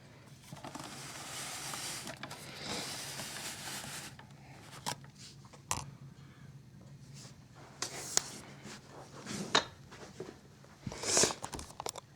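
Superior Sanyo 12-inch oscillating table fan (model EF712) running on low: a steady low motor hum with air hiss for the first few seconds, then scattered clicks, knocks and rubbing from the fan being handled.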